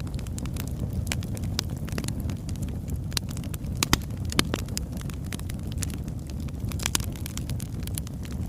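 Oak logs burning in a fireplace: a steady low rumble of the flames with many sharp crackles and pops, a few louder pops about four seconds in and near seven seconds.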